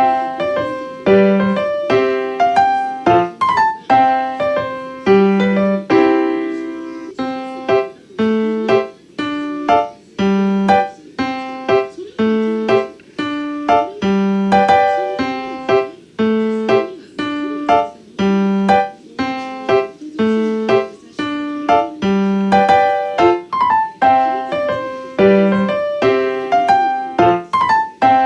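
Background piano music: a slow, repeating pattern of chords and single notes, each struck and left to ring for about a second.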